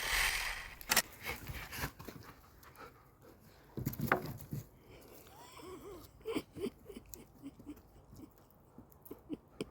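Golden retriever puppy panting and wheezing, with scattered sharp clicks and cracks.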